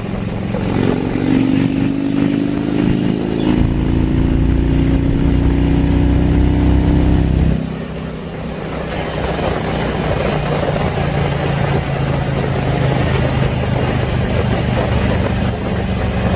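Motorcycle engine running on the road, its note climbing slowly for several seconds, then dropping away suddenly about halfway through and settling to a steady lower drone under a rushing noise.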